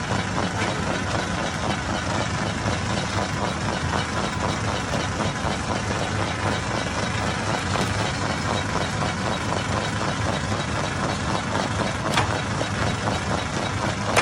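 Hammer-type stone crusher running: a loud, steady mechanical clatter over a low hum, with one sharp knock about twelve seconds in.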